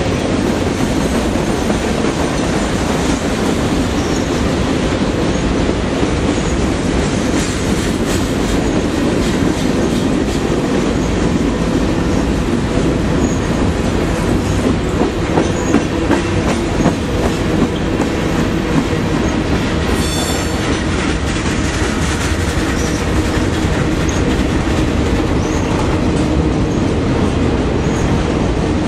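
Freight cars of a long Union Pacific manifest train rolling past: a steady clatter of steel wheels on rail, with wheel squeal. One short, louder high squeal comes about two-thirds of the way through.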